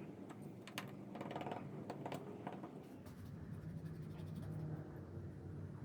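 Faint, irregular light clicks and taps, as of small parts and tools being handled, over a low steady hum.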